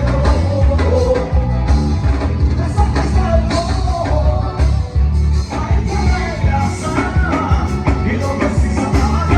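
Live band music with a singer: loud, with heavy bass and a steady beat.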